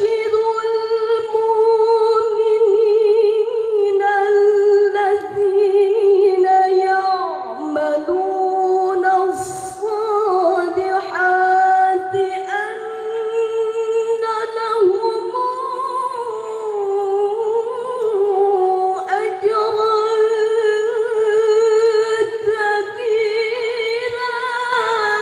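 Quran recitation in the melodic tilawah style: a single high voice, unaccompanied, holding long ornamented phrases with a quick vibrato and winding turns around one steady pitch, with only brief breaths between them.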